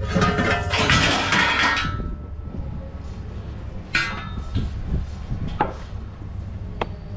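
Metal clattering and jangling for about two seconds, then a sharp clank about four seconds in and a few lighter knocks, over a steady low hum.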